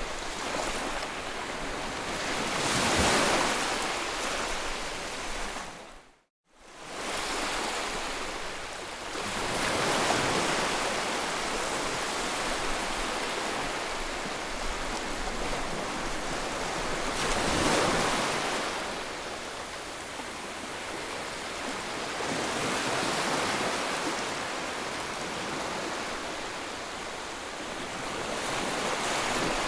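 Ocean surf: waves breaking and washing up in slow swells that rise and fall every several seconds. The sound cuts out completely for under a second about six seconds in, then resumes.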